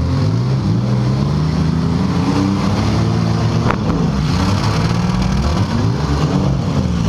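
Several compact-car engines revving up and down in a demolition derby, their pitches rising and falling against each other. A single sharp knock about halfway through.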